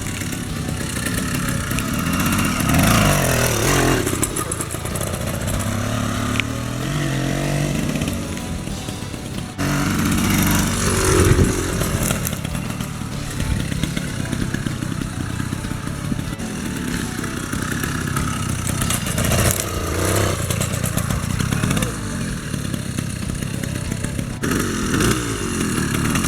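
80cc two-stroke gas-bike engine with a tuned expansion-chamber exhaust, revving up and falling away several times as the bike is ridden. The sound changes abruptly twice.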